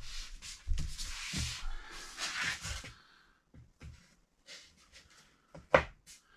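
Scuffing and rustling with low thumps for about three seconds, then a few light scattered taps and one sharp knock near the end: handling and knocking noise during work on a floor.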